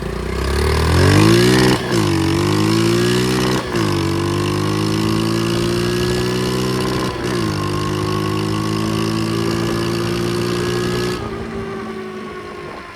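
Small pit bike engine accelerating hard. Its pitch climbs, then drops briefly three times as it shifts up through the gears, then rises slowly at steady throttle. The sound falls away about eleven seconds in.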